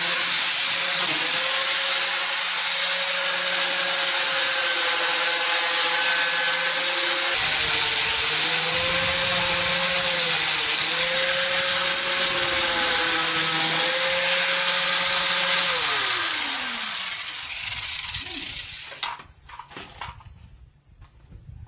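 A handheld electric power tool running with a steady whine whose pitch dips and recovers several times as it bears into the work. It is switched off about sixteen seconds in and spins down with a falling whine, followed by a few sharp clicks and knocks.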